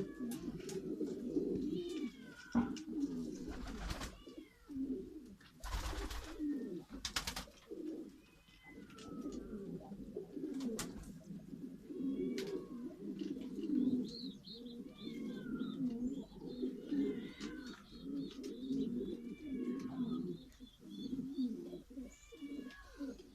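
Domestic pigeons cooing continuously, with many short higher chirps over the cooing and a few brief bursts of noise about a quarter of the way in.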